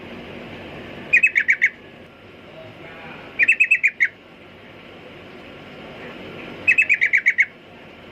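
Yellow-vented bulbul (trucukan) singing: three short, bubbly phrases of five to seven quick notes each, about a second, three and a half seconds and seven seconds in, over a steady hiss.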